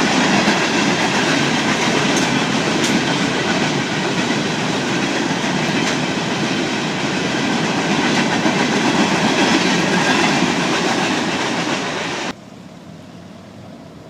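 A train's cars rolling past close by, a steady loud rumble of wheels on rail with clickety-clack. It cuts off suddenly about twelve seconds in, leaving only wind noise on the microphone.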